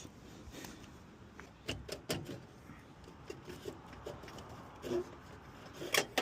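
A few short, sharp clicks and knocks over a low background, from hands working at an air-conditioning condensing unit.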